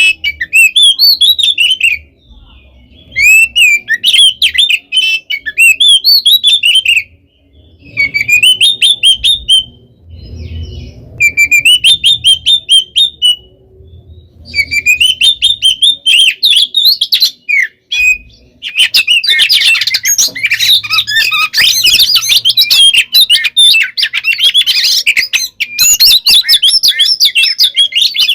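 Oriental magpie-robin (kacer) singing loudly in aggressive, territorial 'fighting' song: rapid whistled phrases and chattering trills. The phrases come in bursts with short pauses at first, then run on almost without a break for the last third.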